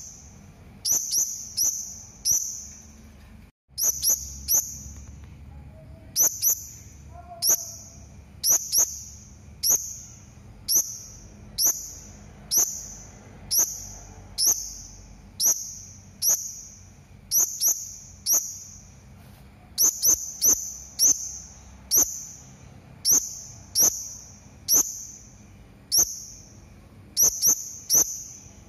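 Serindit (hanging parrot) calling: a long run of sharp, high-pitched chirps, one or two a second, some in quick pairs or threes, with a brief break a few seconds in.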